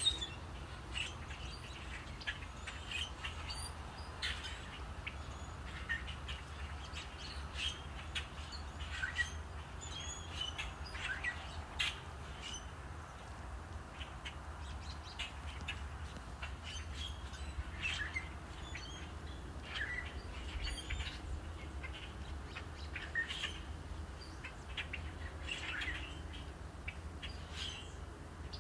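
Several songbirds chirping, with many short, separate calls scattered throughout over a steady low rumble.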